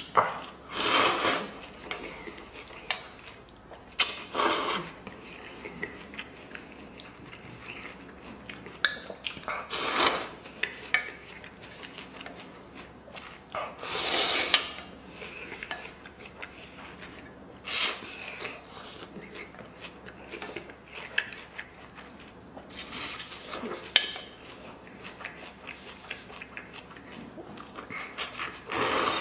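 Someone eating noodles at close range: a short, loud slurp every few seconds, with chewing and small clinks of chopsticks against a bowl in between.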